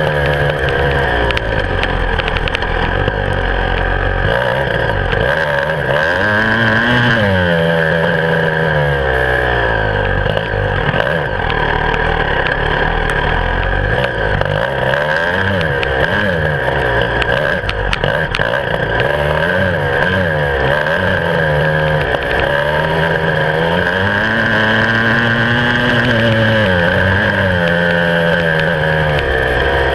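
Beta 300 RR two-stroke single-cylinder enduro motorcycle engine under way, revving up and falling back again and again with the throttle, with several long rises and drops in pitch.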